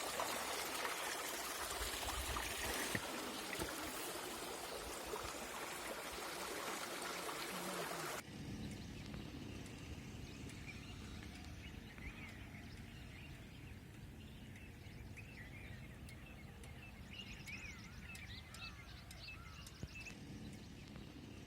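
Rushing water, a steady hiss that cuts off abruptly about eight seconds in. After it comes a quieter low rumble with small birds chirping.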